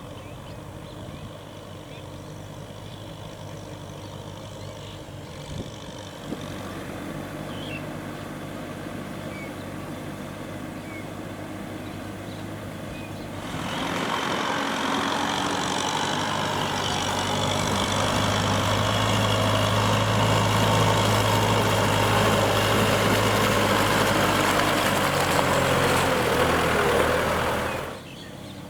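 Kubota M6040SU tractor's diesel engine running steadily as it ploughs through mud. About halfway through it grows clearly louder and harsher, then drops off suddenly near the end.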